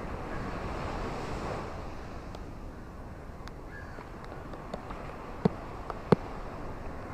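Ocean waves washing on a shore: a steady rush of surf that swells over the first couple of seconds, with scattered sharp clicks and two louder snaps about five and a half and six seconds in.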